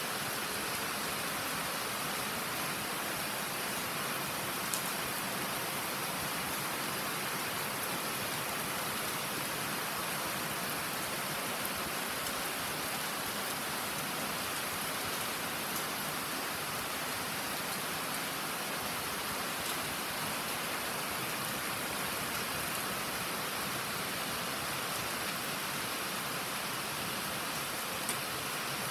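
Rain falling steadily, an even hiss with no let-up, with a couple of single sharp ticks: one about five seconds in and one near the end.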